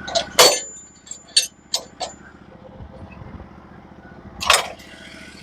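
Portable bandsaw mill's engine idling steadily, with five sharp metallic clanks; the loud one near the start rings briefly and another comes near the end.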